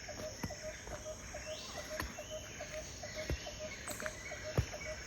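Outdoor insect chorus: a steady high hiss with a short low note repeating about three to four times a second, and scattered sharp clicks.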